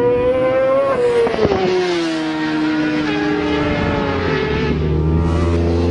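600cc racing motorcycle engines running at high revs. Several bikes are heard at once, and one high engine note climbs, then falls away steadily from about a second in.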